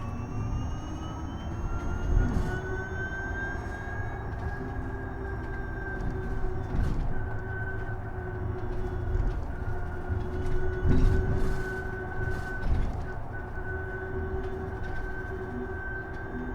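Isuzu Erga EV electric bus under way: the electric drive motor's whine rises in pitch as the bus accelerates over the first few seconds, then holds steady while it cruises, over low road rumble and a few bumps.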